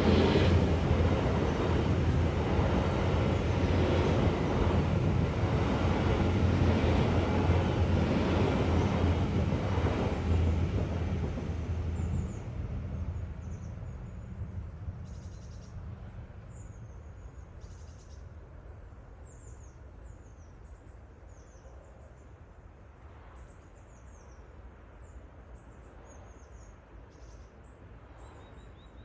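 Passenger train passing over a level crossing: a loud, steady rumble for about twelve seconds that then fades away. Birds chirp through the quieter second half.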